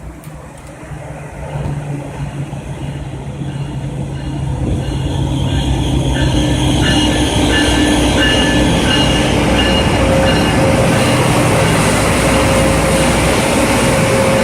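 Train coming into the station, growing louder over the first six seconds, then rumbling by steadily, with high tones coming and going above the rumble.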